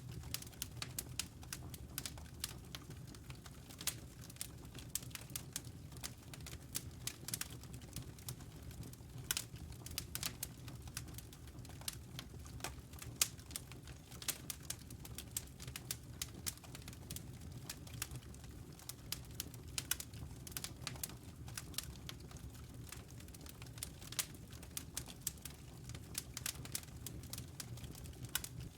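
Wood fire crackling, with sharp snaps and pops at irregular moments over a low, steady rumble of burning logs.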